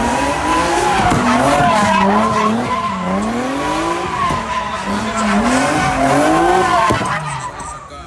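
Car engine revving hard, its pitch climbing and dropping again several times, with tires squealing on pavement. The sound fades somewhat near the end.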